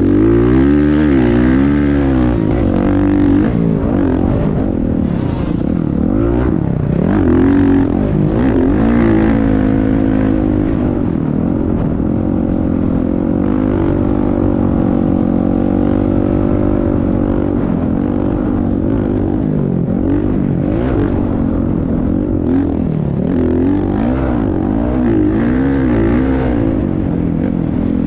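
Motocross bike engine running hard, its pitch repeatedly rising and falling with the throttle, holding a steadier pitch for several seconds in the middle.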